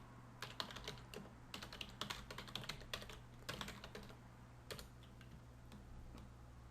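Faint computer keyboard typing in quick runs of keystrokes, thinning out about five seconds in, over a low steady hum.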